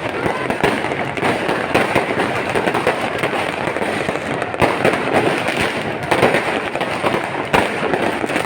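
Fireworks going off in a dense, continuous crackle of many small bangs and pops, with a sharper bang about seven and a half seconds in.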